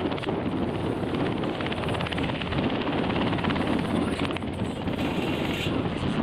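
Aircraft engine noise at close range: a steady, loud running sound with a fast fluttering pulse, like propeller or rotor blades chopping.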